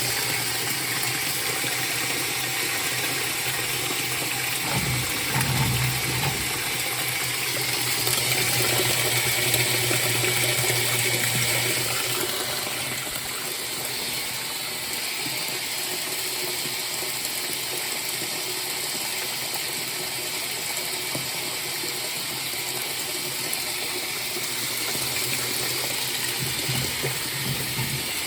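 Top-loading Frigidaire washing machine filling with water: a steady rush of water into the tub, with a low hum for roughly the first twelve seconds.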